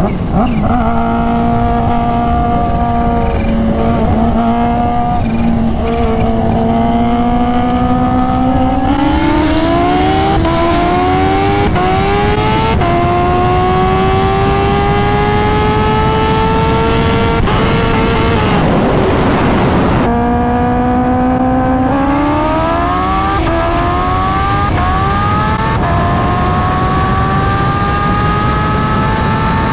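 Kawasaki Ninja H2's supercharged inline-four engine under hard acceleration, its pitch climbing and dropping back with a run of quick upshifts. It holds a steady pitch at first, then goes through one series of shifts from about a third of the way in and another after a brief break about two-thirds through.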